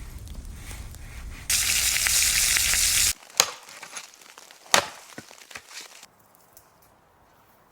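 Campfire sounds: a loud sizzling hiss that cuts in and out abruptly, lasting about a second and a half, followed by several sharp crackles and snaps.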